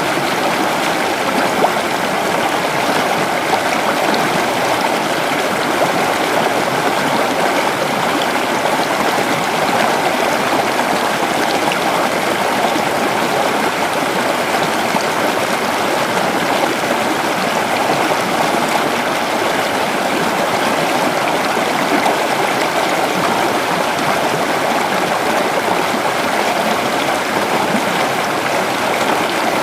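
A creek's shallow flowing water, running steadily over rocks with a constant rushing and babbling.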